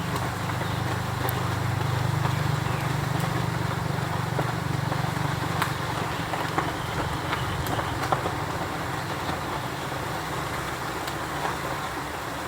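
Steady outdoor background noise with a low hum underneath that fades out about halfway through, and a few faint ticks.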